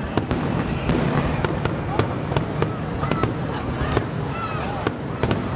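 Aerial fireworks shells bursting: an irregular run of sharp bangs and crackles, roughly two or three a second, over a steady low rumble.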